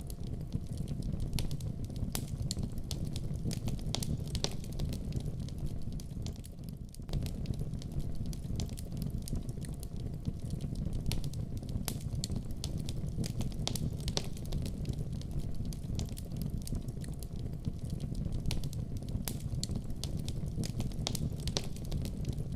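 Fire crackling in a fireplace: a steady low rumble of flames with many small, irregular pops and snaps, with a brief lull about seven seconds in.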